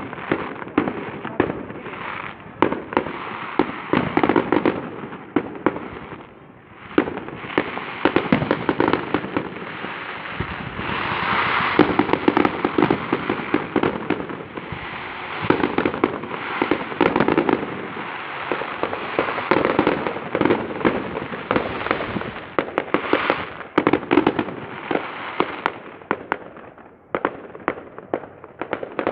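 Aerial fireworks display: a dense, continuous run of bangs and crackling bursts. There are brief lulls about six seconds in and again near the end.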